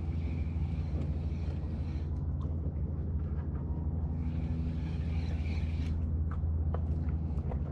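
Boat engine running steadily with a low, even drone, with a few faint ticks over it.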